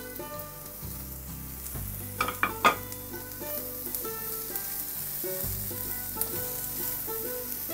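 Chopped onion and red and green bell peppers sizzling in oil in a non-stick frying pan as they are stirred with a spatula, with a few sharp knocks of the spatula against the pan a little over two seconds in.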